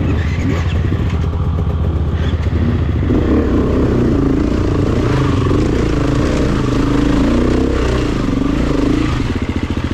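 Honda CRF250F dirt bike's single-cylinder four-stroke engine running on the trail. From about three seconds in, its pitch wavers up and down with the throttle.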